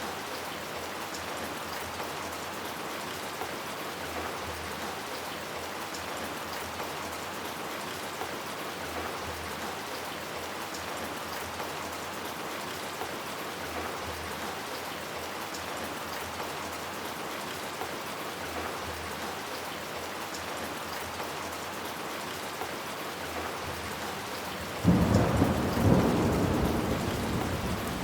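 Steady heavy rain falling, with a thunderclap breaking out suddenly about 25 seconds in and rumbling on as it slowly fades.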